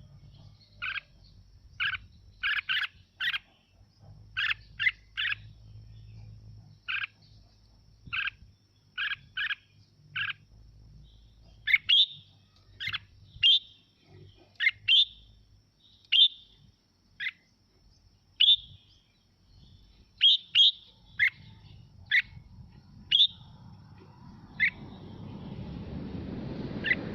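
Red-whiskered bulbul singing: a string of short, sharp whistled notes, often in quick pairs or triplets, with the later notes higher and rising. A rushing noise swells up near the end.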